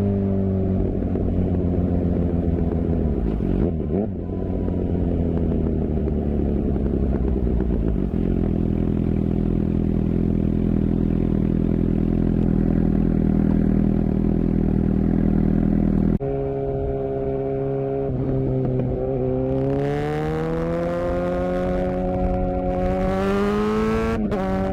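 Suzuki GSX-R750 inline-four engine running through its exhaust. The note falls at first, then holds steady for several seconds. It drops abruptly about two-thirds of the way through, then rises steadily as it picks up revs, with a brief break near the end.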